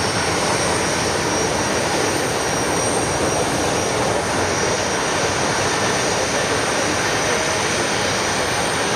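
BAe 146-300's four Lycoming ALF502 turbofan engines running at high power, loud and steady: a broad rushing noise with a thin high whine above it.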